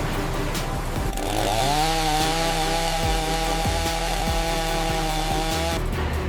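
Chainsaw revving up about a second in, then running at full throttle at a steady pitch for several seconds before cutting off near the end.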